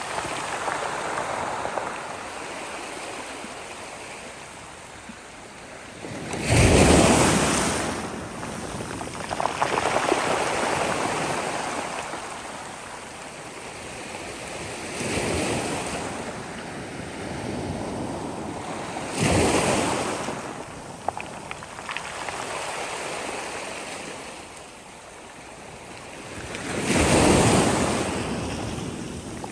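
Sea waves breaking and washing up the shore. A wave crashes every several seconds, with the biggest breaks about a quarter of the way in and near the end, and a softer rushing wash in between.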